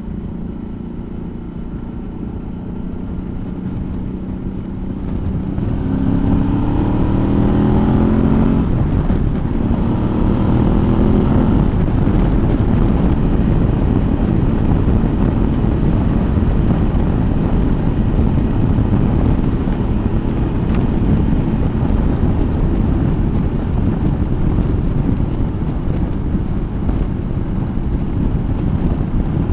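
Suzuki V-Strom motorcycle engine running steadily, then pulling up in pitch twice, about six and ten seconds in, as the bike accelerates through the gears. After that it cruises, with steady wind and road noise over the engine.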